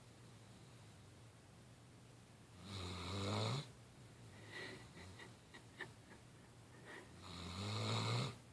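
Great Dane snoring in her sleep: two long snores about four and a half seconds apart, each rising in pitch at its end, with faint clicks between them.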